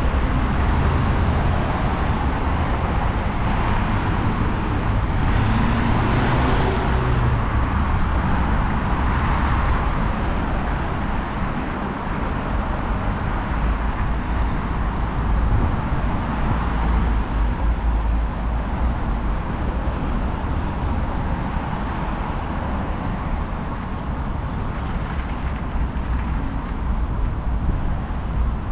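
City street traffic: a steady rumble of cars going by, with one vehicle swelling past about six seconds in.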